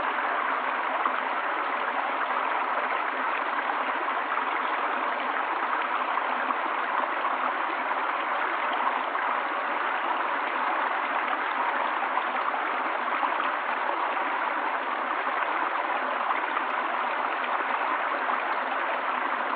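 Running water, like a stream, flowing with a steady even rush.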